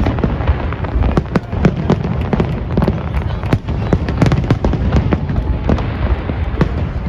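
Large aerial fireworks display heard from across a river: a continuous barrage of shell bursts and crackling reports, several a second, over a steady low rumble of booms.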